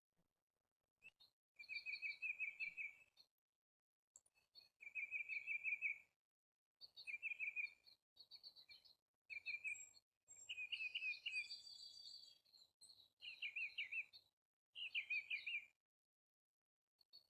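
A songbird singing a series of short phrases, each a quick run of repeated notes, with brief pauses between them.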